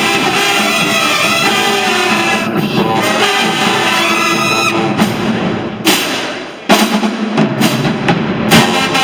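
Marching band brass and drums playing: held brass chords, then a swell that dies away about two-thirds through and gives way to sharp, punchy brass-and-drum hits.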